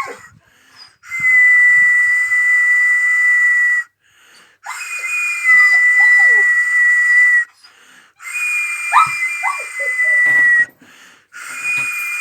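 A person whistling long, steady high notes, three in a row, with a fourth starting near the end, each ending with a slight fall in pitch. A dog gives short falling whines and yelps over the whistling.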